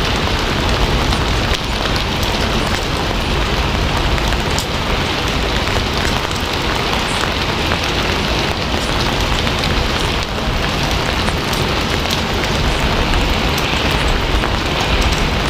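Steady heavy rain falling on a surface: a constant even hiss with many small drop ticks scattered through it.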